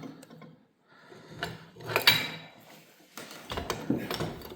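Clinks, knocks and scrapes of metal engine parts and hand tools being handled during an engine teardown, the sharpest clink about two seconds in.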